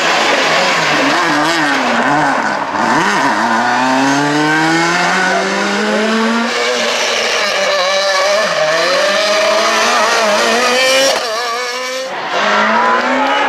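Super 2000 rally car's two-litre four-cylinder engine revving hard at full throttle: the pitch bounces with quick throttle changes, then climbs steadily for several seconds through a gear. Near the end the sound drops away briefly and a fresh engine note picks up.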